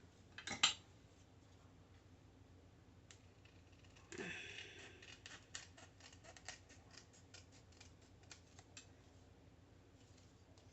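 Scissors cutting paper: a sharp click about half a second in, a brief rustle about four seconds in, then a run of quick snips until near the end.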